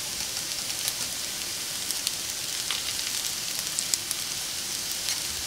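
Veggie burger patties frying in hot oil in a frying pan: a steady sizzling hiss with scattered small pops.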